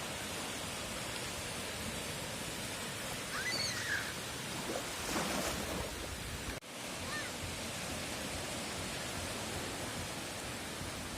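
Surf washing on a beach, recorded on a phone: a steady, even rush of waves. A couple of brief high chirps sound about a third of the way in and again a little past halfway.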